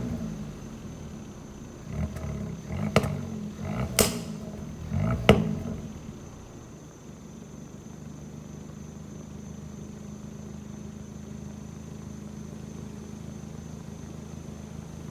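Exhaust of a 2020 Kia Forte GT's turbocharged 1.6-litre four-cylinder on the stock system: four short throttle blips, three of them ending in a sharp pop or bang from the exhaust. The engine then settles to a steady idle.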